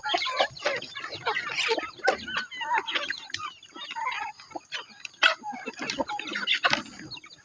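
Chickens clucking and squawking, with many short, sharp knocks and scuffles mixed in, as of roosters fighting.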